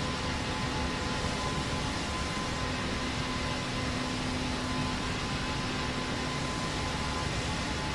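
Airplane noise: a steady, unchanging drone of even rushing noise with a faint steady hum in it.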